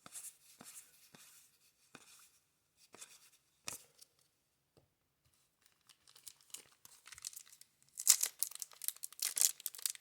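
A few faint ticks and rustles of cards being handled, then, about eight seconds in, a 1990 Score baseball card pack's wrapper being torn open and crinkled, loud and crackly.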